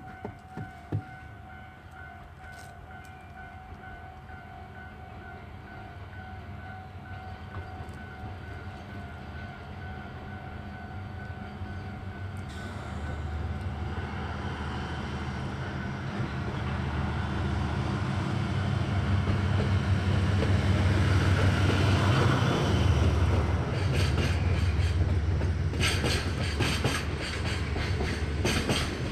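Diesel-hauled freight train approaching: its low engine rumble grows steadily louder over about twenty seconds, then the wheels clatter rapidly over the rail joints as the cars pass close by.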